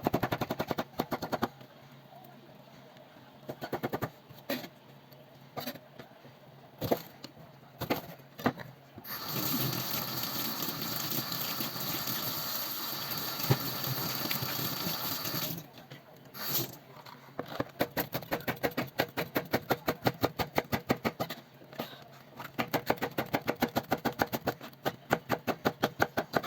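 Kitchen knife chopping vegetables on a cutting board in quick, even strokes, with a stretch of tap water running for several seconds in the middle.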